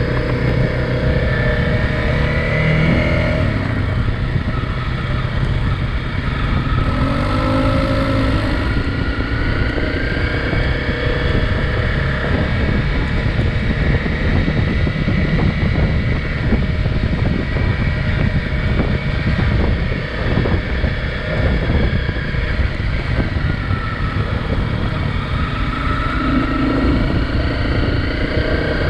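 A small dual-sport motorcycle engine runs under way on a dirt trail with a steady rumble. Its pitch rises and falls a few times as the throttle changes.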